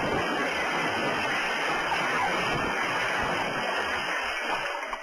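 Steady rushing noise of a moving vehicle, road and engine noise mixed, easing slightly right at the end.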